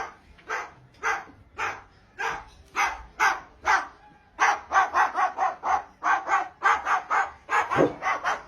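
Repeated barking, about two barks a second, quickening to about three a second about halfway through.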